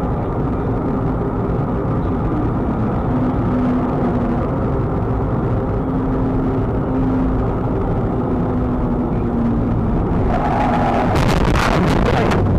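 Steady road and engine noise of a moving car, as picked up by a dashcam inside the cabin. About ten seconds in, a rapid run of sharp, crackling bursts rises over it.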